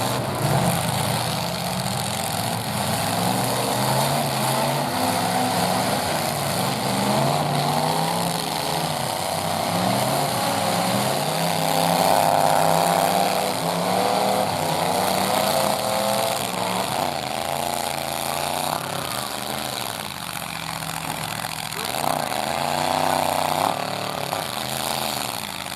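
Several full-size pickup truck engines running together, their pitch repeatedly rising and falling as they rev and ease off.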